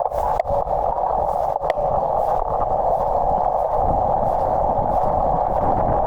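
Steady wind and wet-road noise picked up by a bicycle-mounted camera's external microphone while riding a road bike in the rain, with a few sharp clicks in the first two seconds.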